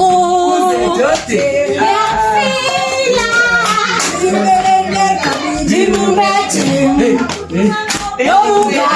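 Voices singing with hand clapping.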